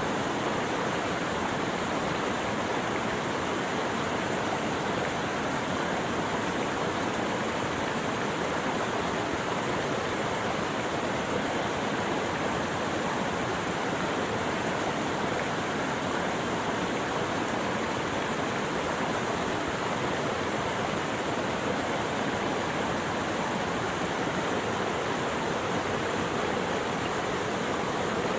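Running water rushing steadily, an even unbroken wash of sound with no birds or other events standing out.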